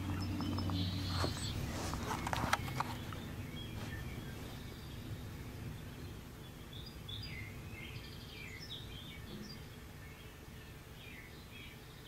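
Small birds chirping and twittering through a TV speaker, a bird video played for cats. The chirps come in from about four seconds in and grow busier toward the end. The first few seconds hold knocks and rustles of the phone being handled and set down.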